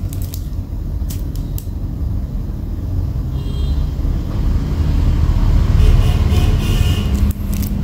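Steady rumble of passing road traffic, swelling to its loudest about six seconds in, with a few sharp clicks in the first two seconds.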